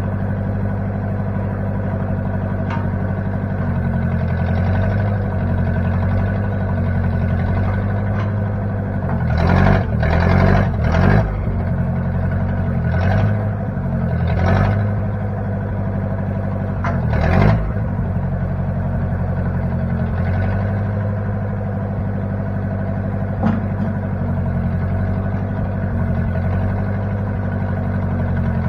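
Engine of a 1960 Case 540 backhoe running steadily. It swells briefly in loudness and pitch a few times, about ten, thirteen, fourteen and seventeen seconds in.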